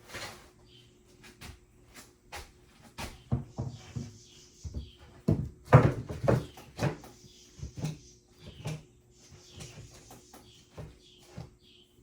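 A series of irregular knocks and clunks from things being handled and moved about, loudest in a cluster about halfway through.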